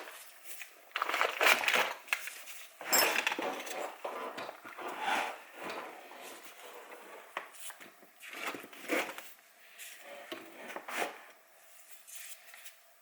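Metal parts and tools clinking, knocking and rattling in irregular bursts as foot pegs and their hardware are handled and fitted to a pit bike's frame.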